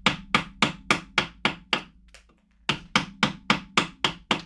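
Mallet driving a carving chisel into a block of wood: sharp, evenly spaced knocks, about three a second, in two runs with a short pause about two seconds in.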